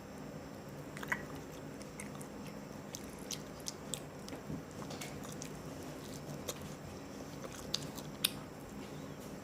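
Close-up chewing and biting of greasy hot and spicy chicken, with wet mouth noises and a dozen or so short crunchy snaps scattered through. A low steady hum sits underneath.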